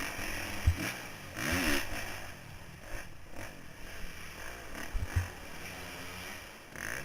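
A Kawasaki KX450F's single-cylinder four-stroke motocross engine revving up and down, heard through a helmet-mounted camera. Low thumps come about a second in and twice near five seconds.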